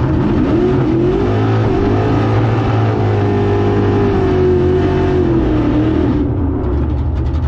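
Drag race car engine accelerating hard. Its pitch climbs sharply at the start, holds high for several seconds, then drops away about six seconds in.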